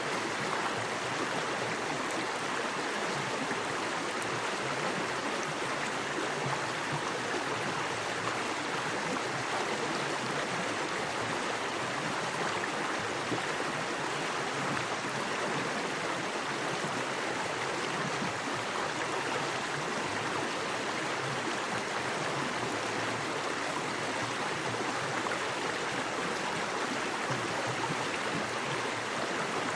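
A small, fast-flowing creek rushing and splashing over rocks, a steady, even sound of water.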